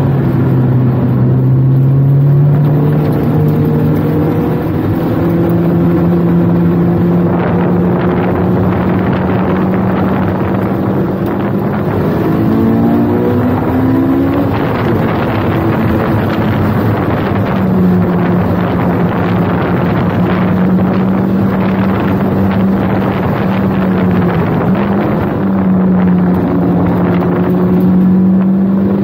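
Honda S2000's four-cylinder engine with a Tanabe Medallion exhaust pulling hard at track speed, heard inside the cabin over wind noise. The engine note climbs steadily, then breaks into a brief run of quick rev changes as the driver shifts about halfway through, then holds a high, steady note with a short dip near the end.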